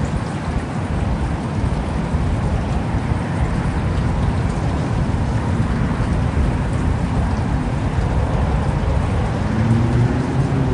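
Heavy thunderstorm rain falling, with a deep low rumble underneath that slowly grows louder. Near the end a low humming tone comes in, rising slightly.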